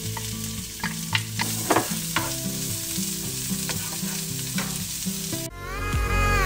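Diced red onion sizzling in hot oil in a frying pan, with the clicks and scrapes of a wooden spoon stirring it. About five and a half seconds in, the sizzle cuts off and loud electronic music begins.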